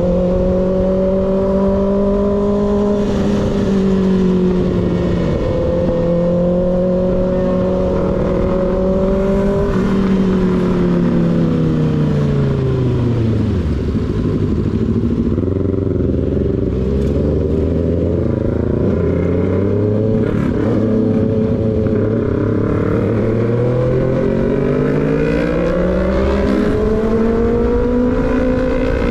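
Motorcycle engine with an unbaffled slip-on exhaust, heard from the rider's position: it holds a steady note, then eases off and drops to a low note for several seconds, and climbs again near the end as the bike speeds back up. Wind rumble is underneath.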